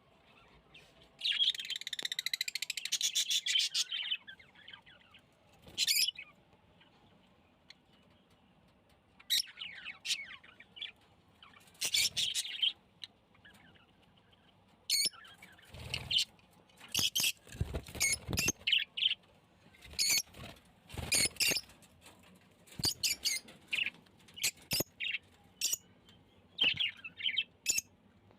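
Small cage birds chirping and calling: a dense burst of high twittering near the start, then scattered short chirps, with a few low thumps midway through.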